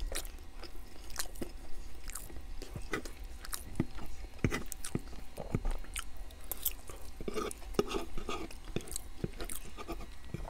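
Close-miked chewing of homemade meatloaf: irregular wet mouth clicks and smacks as he eats.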